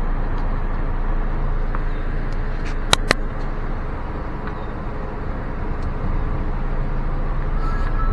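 Steady low rumble of a car rolling slowly at walking pace, heard from inside the cabin, with two sharp clicks in quick succession about three seconds in.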